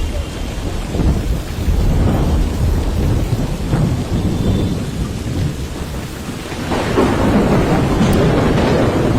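Heavy rain with a steady low rumble, swelling louder and brighter about seven seconds in.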